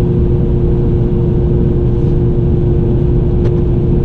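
Steady engine and road drone of a plow truck driving at speed, heard from inside the cab, with a constant steady hum over it.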